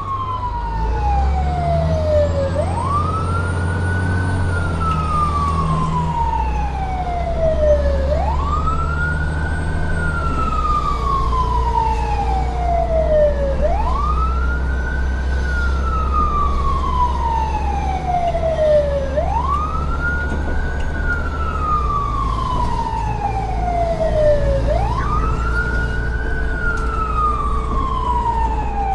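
Siren wailing in slow cycles: each one climbs quickly and then falls slowly, about every five and a half seconds. A steady low engine-like rumble runs underneath.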